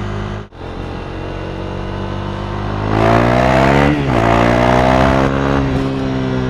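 KTM Duke 390's 373cc single-cylinder engine through an Akrapovic exhaust, running steadily, then opened up about three seconds in with the pitch rising. The pitch drops sharply near four seconds, as at an upshift, holds high, then eases off near the end.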